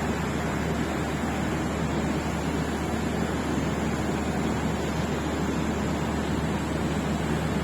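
Steady background noise of a railway station while waiting for a train: an even rush with a constant low hum underneath and no distinct events.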